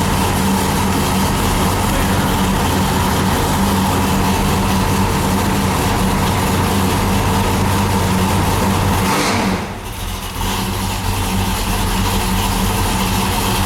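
Oldsmobile 455 V8 idling cold just after start-up, heard through a 2.5-inch dual exhaust with an X-pipe. About nine and a half seconds in the engine sound briefly drops and quietens, then settles back to a steady idle.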